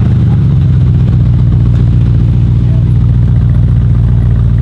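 The twin-turbo 4.0-litre V8 of a GAD Motors-tuned, roughly 1000 hp Mercedes-AMG E63 S idling loud and steady.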